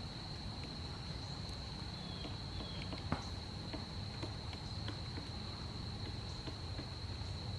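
A steady, high-pitched insect trill, with scattered light ticks and one sharper tap about three seconds in.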